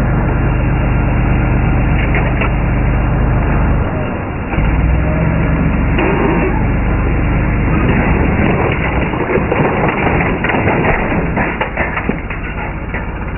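A vehicle engine running steadily, with a scatter of knocks and cracks over it in the second half.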